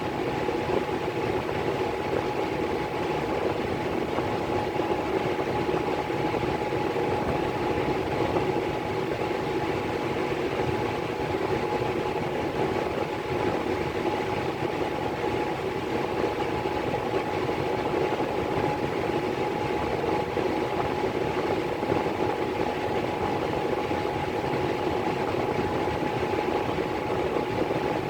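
Miller E3 furnace blower running steadily: a constant rushing of air with a steady whine over it.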